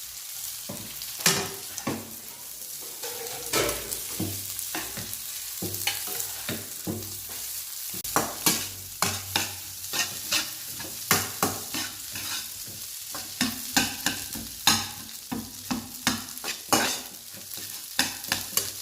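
Fried rice sizzling in hot oil in a frying pan while a spatula stirs and scrapes it, with frequent sharp scrapes and taps against the pan, coming faster and louder about halfway through.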